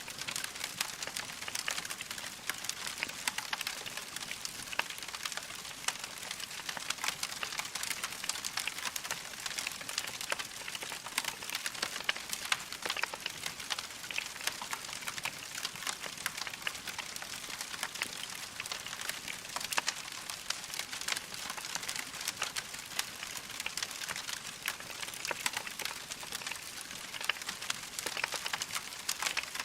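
Wood fire crackling steadily, with a dense run of small snaps and pops from burning logs over a soft hiss.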